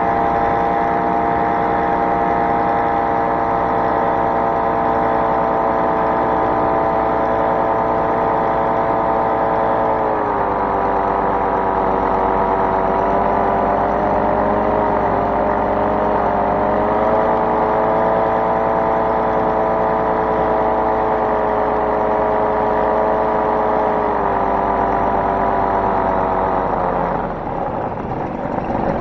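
Small aircraft engine running steadily at high power. Its pitch drops a little about ten seconds in, and the sound falls away sharply near the end.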